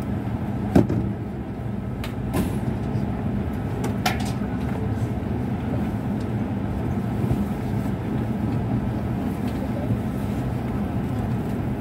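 Cabin running noise of an E6-series Komachi Shinkansen train pulling out of a station: a steady low rumble, with a few sharp clicks in the first few seconds.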